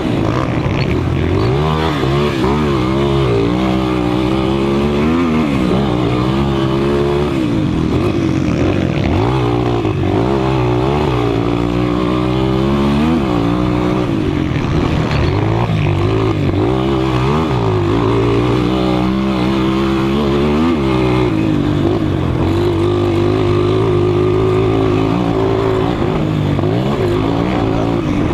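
200 cc motocross motorcycles racing, their engines revving up and dropping again and again as they accelerate and shift, with more than one engine heard at once.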